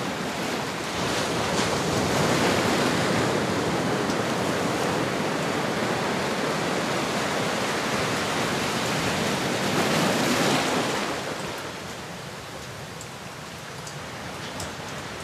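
Ocean surf: a wave washing in as a broad rushing swell that runs loud for several seconds, then falls away to a softer wash about eleven seconds in.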